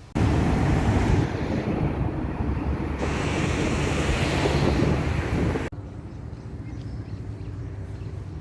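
Wind buffeting the microphone outdoors, a loud rumbling rush that starts suddenly and cuts off sharply a little over halfway through, leaving a quieter steady background.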